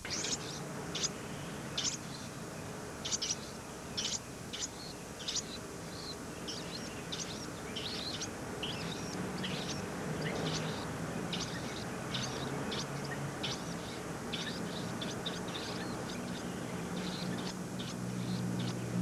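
Small birds chirping: short, high chirps repeated throughout, coming more densely in the second half. A low steady hum builds in the background from about halfway.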